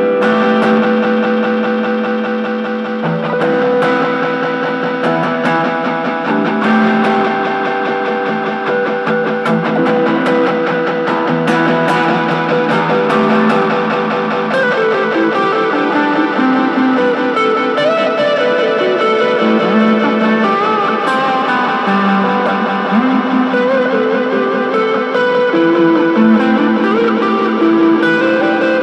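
Electric guitar, a Fender Telecaster, played through a Boss DD-3 digital delay pedal: held notes and their delayed repeats pile up into a dense, layered wash, with wavering, bending pitches through the middle.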